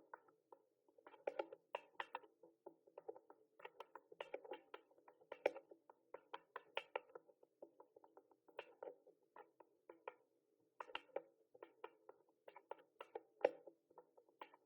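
Typing on a mechanical keyboard: quick, uneven runs of key clicks, several a second, with short pauses between the runs.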